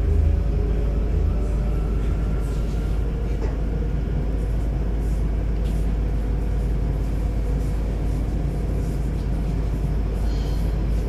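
A DB Class 423 S-Bahn electric multiple unit running, heard from inside the car: a steady low rumble of the wheels on the rails. Over it, a faint electric whine rises in pitch during the first few seconds.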